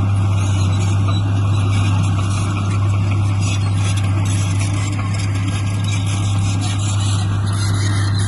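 Heavy diesel engine running steadily at an even speed, with a strong low hum that holds level throughout.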